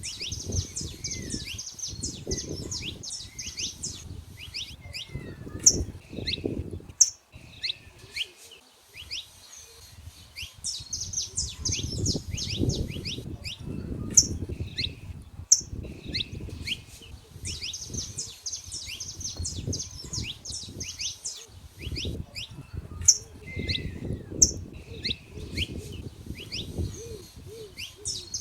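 Saffron finches singing: sharp high chirps and fast trilled phrases that recur every several seconds, over a low rumbling noise that comes and goes.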